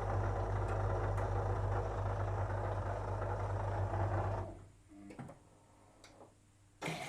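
Whirlpool FL 5065 front-loader's drain pump running with a steady low hum, which cuts off about two-thirds of the way through. A few faint knocks follow in the quiet, then a steady rushing noise starts near the end.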